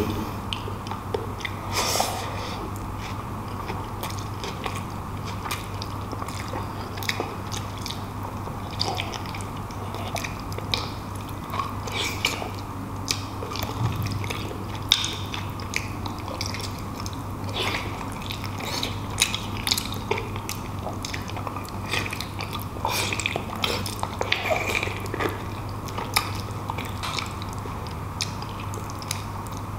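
Close-miked chewing and biting of braised beef shank meat and tendon, with many short mouth clicks over a steady low hum.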